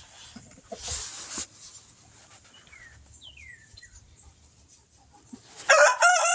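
A rooster starts crowing near the end, a loud held call. Before it there is a brief rustle and a couple of faint, high falling chirps.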